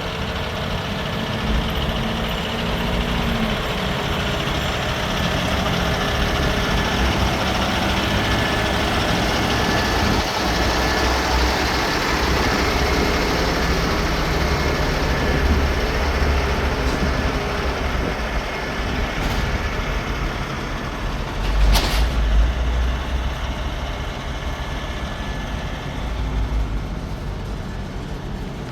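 Heavy truck diesel engine running steadily with a deep low rumble, and one brief sharp hiss about three-quarters of the way through.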